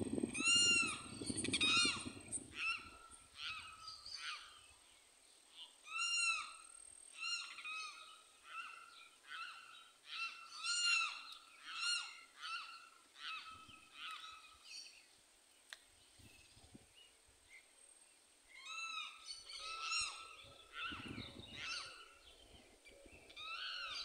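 Birds calling in several bursts of short notes, each note rising and then falling in pitch, strung together in quick series with pauses of a few seconds between the bursts.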